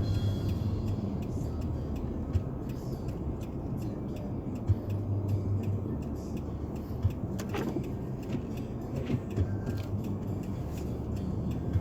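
Car driving on a snow-covered road: a steady low engine and tyre drone, with a few short knocks.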